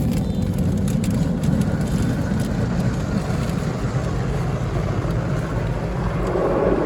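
Automatic tunnel car wash heard from inside the car: a steady rush of water spray and washing machinery over a low rumble.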